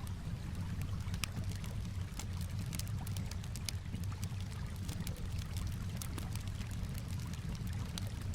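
Campfire crackling with frequent sharp, irregular pops over a steady low wash of calm water.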